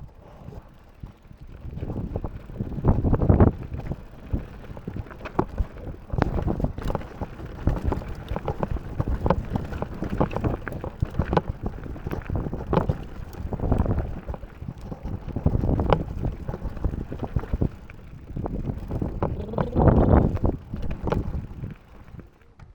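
Mountain bike descending a rough trail: tyres rumbling over rock and dirt, with frequent sharp rattles and knocks from the bike, and wind on the microphone. It swells louder twice, about three seconds in and near the end.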